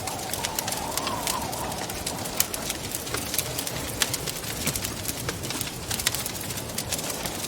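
Wood fire in a fireplace crackling and popping with irregular sharp snaps, over a steady rush of wind. A wavering, whistling gust of wind rises and falls over the first couple of seconds.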